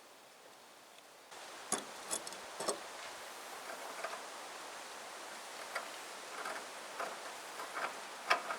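Scattered light metallic clicks and taps from hand work on a steel pipe fitting being threaded, a few louder knocks among them, over a steady background hiss that steps up about a second in.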